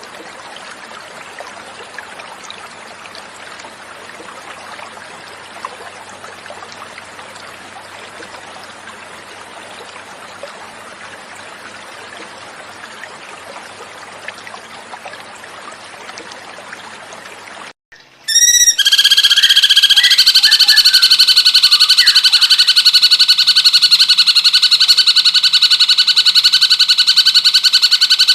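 Running water trickling steadily for about eighteen seconds. It cuts off, and then a much louder cucak cungkok call takes over: a very rapid, steady-pitched trill held for about ten seconds.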